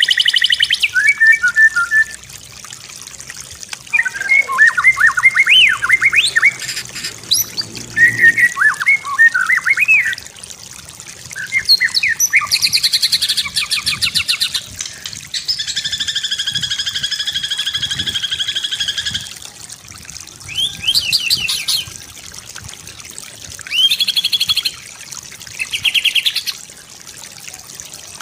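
White-rumped shama singing a varied song of fast whistled trills and chattering phrases with short pauses between them. The middle holds a buzzy phrase of about three seconds, and short bursts of rapid trills come near the end.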